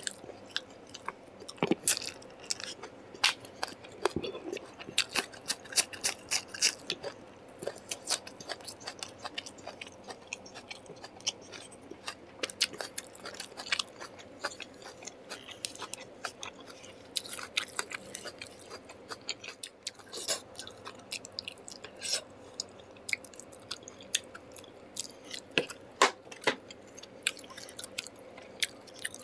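Close-miked eating: wet chewing and biting of curry, meat and rice, with many quick irregular smacks and crunches.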